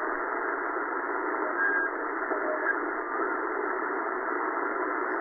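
Tecsun S-8800 shortwave receiver in lower sideband mode, playing steady static hiss through its speaker while it is tuned up through the 40-metre band. The hiss is held to a narrow, telephone-like band by the receiver's sideband filter.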